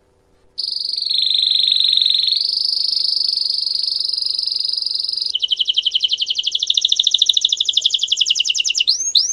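Belgian song canary singing a long rolled song: a high, very fast trill that steps up slightly in pitch about two seconds in, changes around the middle to a slower, pulsing trill, and ends in a few quick rising notes.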